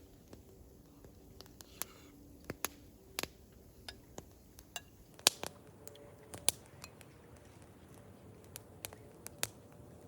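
A spoon clinking and tapping against a bowl or pot while chili is eaten: a dozen or so irregular sharp clicks, the loudest about five seconds in.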